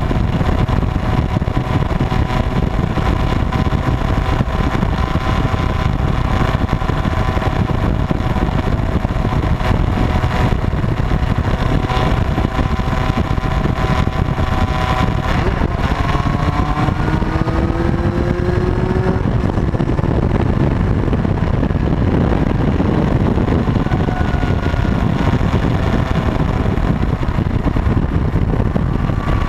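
Motorcycle engine running under way over a steady low rumble. Its pitch rises a little past halfway through as it speeds up.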